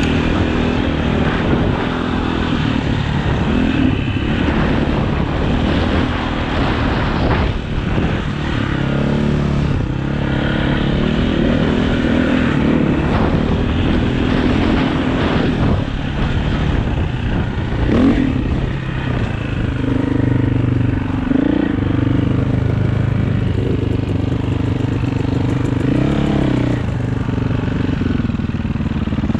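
Off-road dirt bike engine running as the bike is ridden, its pitch rising and falling with the throttle over a continuous rushing noise.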